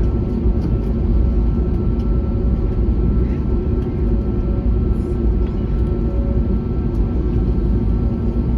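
Airbus A321neo's Pratt & Whitney PW1100G geared turbofan engines running at a steady power: a constant low rumble with a couple of faint steady tones over it.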